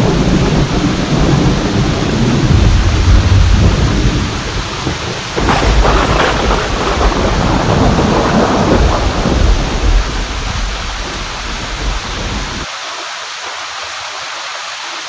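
Steady heavy rain with rolling thunder. A fresh clap of thunder breaks about five seconds in and rumbles on; near the end the rumble drops away suddenly, leaving only the hiss of rain.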